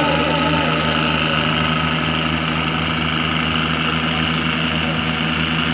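Tractor engine running at a steady speed, its note holding even throughout.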